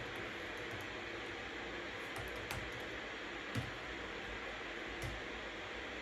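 Steady white-noise hiss with a few scattered computer keyboard keystrokes. The sharpest keystroke comes a little past halfway.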